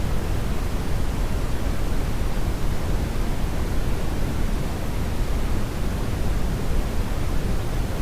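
Synthetic brownian noise: a steady, unbroken rumbling hiss, heaviest in the bass and thinning toward the treble, with no change in level.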